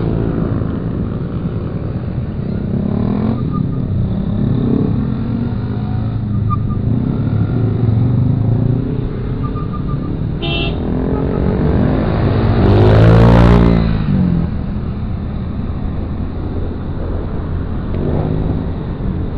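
Motorcycle riding in heavy city traffic: engine and road noise rumbling steadily, with a short horn beep about ten seconds in and a louder vehicle passing close, swelling and fading, around thirteen seconds in.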